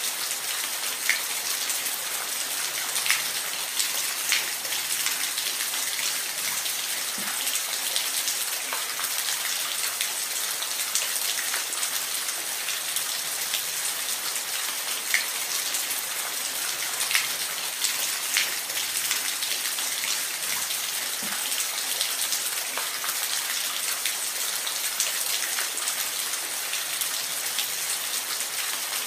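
Steady rain falling, a continuous hiss with individual drops ticking sharply on a surface every second or so.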